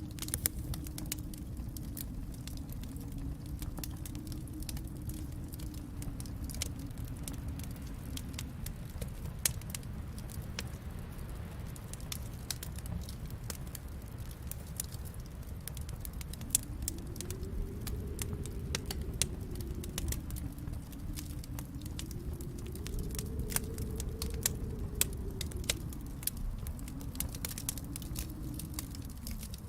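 Wood fire crackling in a fireplace: irregular sharp pops and snaps over a steady low rumble that swells and fades several times.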